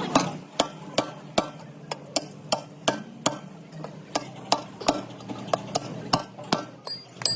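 Sharp, evenly spaced clicks or taps, about two and a half a second, keeping a steady beat.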